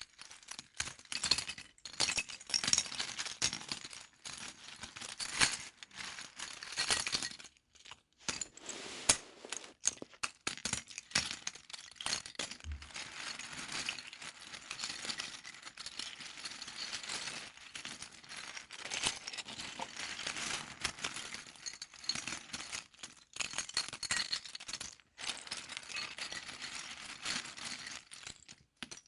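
Small plastic LEGO pieces clicking and rattling over and over as they are handled, with irregular clatters throughout.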